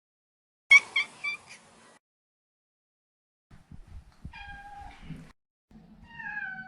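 Male Maine Coon cat calling: a loud quick run of three or four short chirping meows about a second in, then two drawn-out meows that fall in pitch in the second half.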